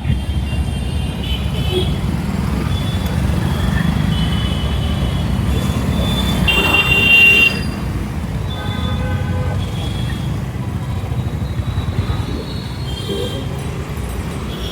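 Road traffic noise with a steady low rumble of wind and road, and other vehicles' horns honking in short blasts; the loudest horn comes about halfway through.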